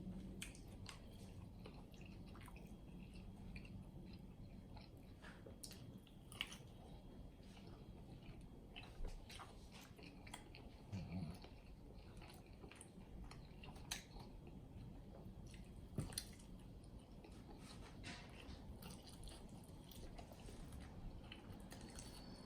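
A person chewing and biting into sauced chicken wings, with wet smacking and scattered sharp clicks of biting.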